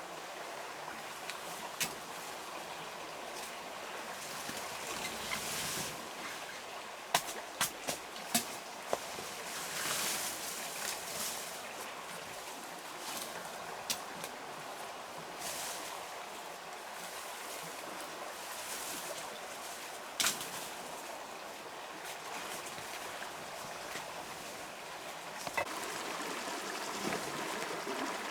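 Steady rush of running water, like a small forest stream, with a few sharp clicks or knocks scattered through it, a cluster of them about a third of the way in.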